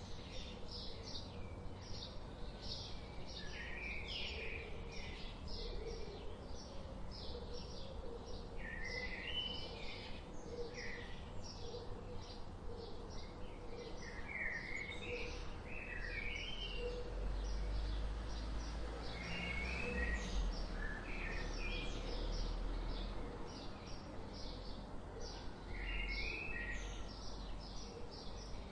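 Birds chirping and singing: a dense run of short high chirps with a repeated warbled phrase every few seconds, over a steady low rumble that swells for a few seconds in the middle.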